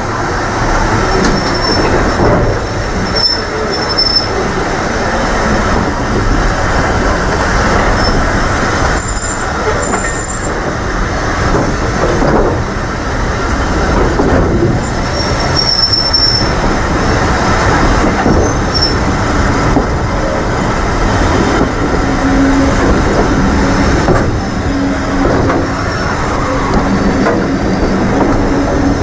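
Heritage railway train running along the line, wheels rumbling on the track, with brief high wheel squeals several times.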